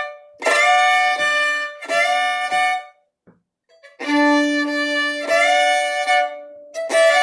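Solo fiddle playing short bowed phrases of a D-chord double stop, with notes slurred or slid up into from below. There are four phrases with a brief pause in the middle, and the third carries a low open-string drone underneath.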